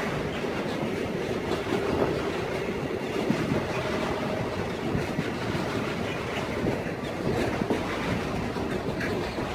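Intermodal freight train's container wagons rolling past close by: a steady rumble of steel wheels on rail with the rhythmic clatter of wheelsets over rail joints, and a faint brief wheel squeal about four seconds in.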